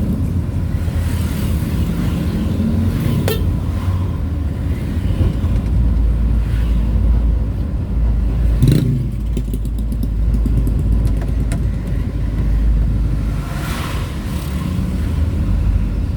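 Motor vehicle driving on a road: a steady low rumble of engine and road noise, heavier through the middle, with a short knock about 3 seconds in and a thump near 9 seconds.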